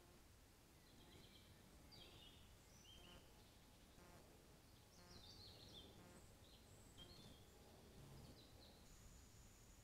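Faint songbird calls: a run of short, high chirps and whistled notes, some sliding in pitch. A thin steady high tone comes in near the end.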